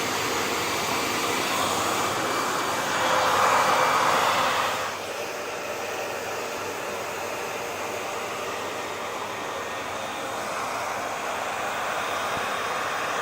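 Hair dryer running steadily: a wide rush of blown air with a faint motor whine. The rush grows louder a few seconds in, drops suddenly about five seconds in, then slowly swells back.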